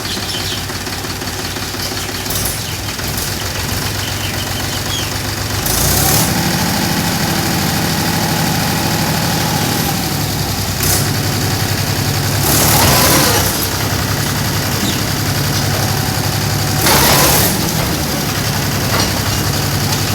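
Tractor engine running steadily. About six seconds in its note steps up and it runs louder, as if taking load. Three short bursts of hissing come through it.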